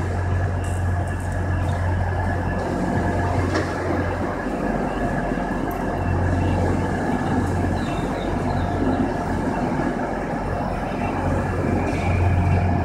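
Class 365 electric multiple unit pulling into the platform and rolling slowly past close by. Its wheels and running gear make a steady rumble over a low hum that swells and fades a few times.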